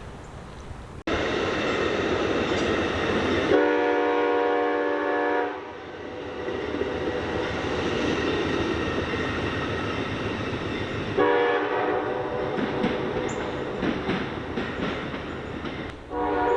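A train passing close by, with a steady rumble and clatter of wheels on the rail. Its multi-tone air horn sounds a blast of about two seconds around four seconds in, another around eleven seconds, and a third beginning near the end.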